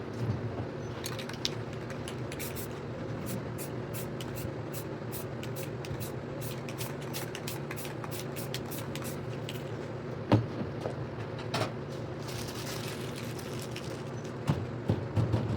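Spray paint can sprayed in many short hissing bursts, with one longer spray about 13 seconds in, over a steady low hum; a couple of sharp knocks near the end.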